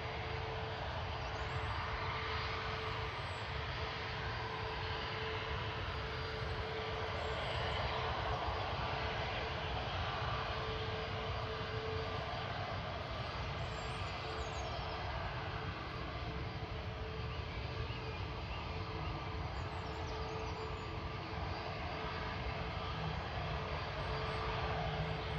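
Jet airliner engines running, a steady dense rumble with a thin constant tone through it, swelling slightly about a third of the way in.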